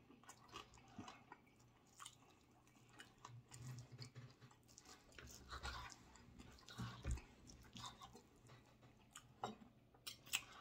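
Quiet chewing of a mouthful of steak, with scattered faint clicks and scrapes of a knife and fork cutting meat on a wooden cutting board.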